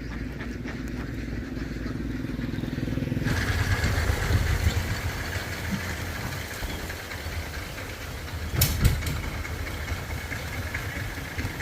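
A vehicle engine running steadily, its sound changing abruptly about three seconds in, with two sharp clatters near the end.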